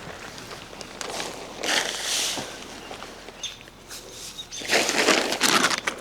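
Tarp or tent ground sheet being handled and spread out, rustling and crinkling in irregular bursts, with a louder spell about two seconds in and another near the end.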